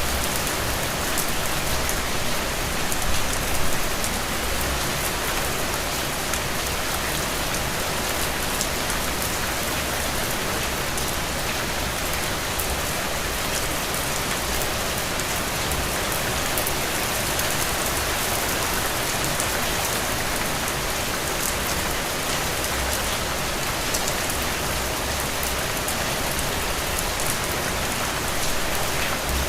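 Heavy rain falling steadily, a dense even hiss with the crackle of single drops striking.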